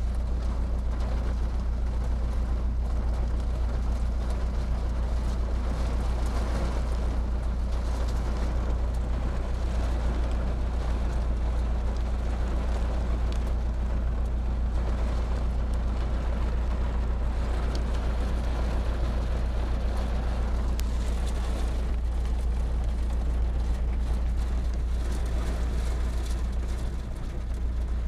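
Heavy rain pouring down steadily, with a constant deep rumble underneath and scattered small ticks of drops.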